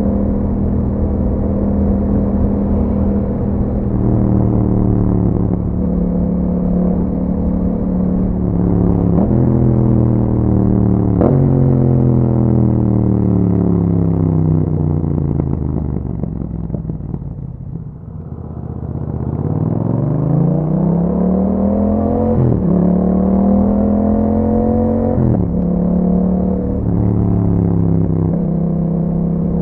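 Yamaha MT-07's parallel-twin engine through an Akrapovic exhaust, heard while riding. The engine note falls as the bike slows, with two sudden jumps in revs from downshifts, and drops to a low near the middle. It then climbs again under acceleration, with sharp drops in pitch at each upshift near the end.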